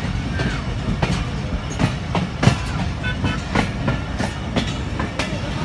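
A passenger train heard from aboard, running slowly: a steady low rumble of the running gear with irregular clicks and knocks as the wheels cross rail joints.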